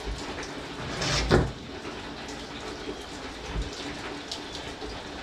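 Steady hiss of heavy rain on the shop roof, with one louder brief scrape ending in a knock about a second in.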